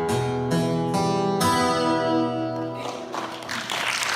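Acoustic guitar strumming the closing chords of a song, the last chord struck about a second and a half in and left to ring out, with applause beginning to rise near the end.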